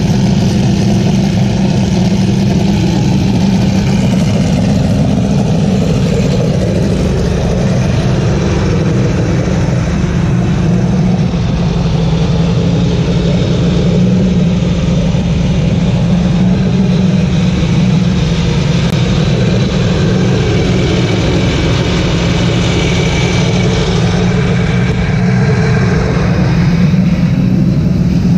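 A racing car engine idling steadily close by, holding an even pitch without revving, with wind buffeting the microphone.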